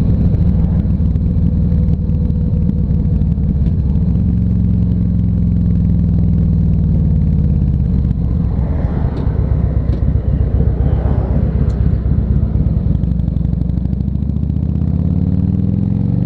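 Harley-Davidson Ultra Classic Electric Glide's V-twin engine running at low road speed, steady at first, then rising in pitch near the end as it accelerates.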